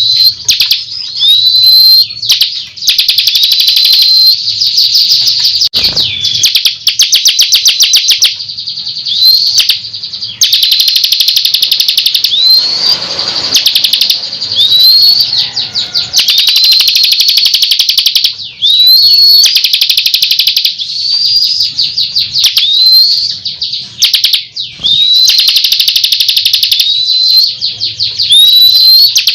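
Bar-winged prinia (ciblek) singing continuously and loudly. Short upslurred whistled notes repeat every second or so, alternating with long, fast trills.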